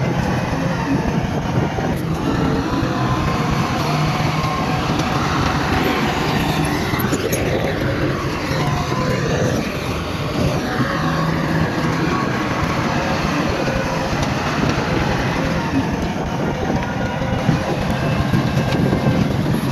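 Heavy diesel earth-moving machinery running steadily under load, engine pitch rising and falling for a few seconds around the middle.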